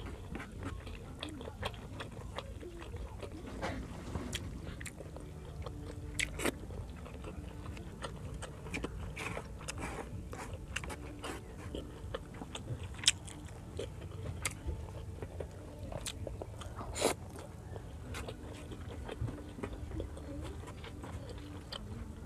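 Close-miked wet chewing and mouth sounds of a person eating pork liver igado with rice. Short sharp clicks and crunches are scattered throughout, with a few louder ones near the middle and about three quarters of the way in.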